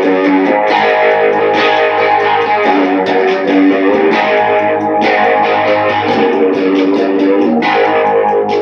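Electric guitar strumming blues chords in a steady rhythm, the chord changing every second or two.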